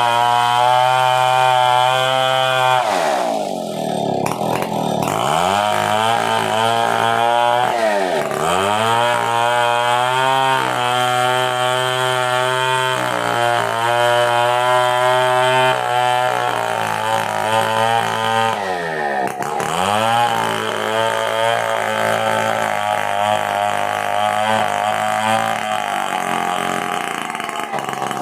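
Stihl 070 two-stroke chainsaw running at high revs while cutting coconut wood. Its pitch drops and climbs back about three times, as the engine bogs under load in the cut and recovers.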